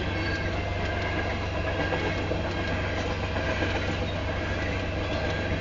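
Union Pacific freight train of tank cars rolling past at speed: a steady rumble of wheels on rail with light clickety-clack.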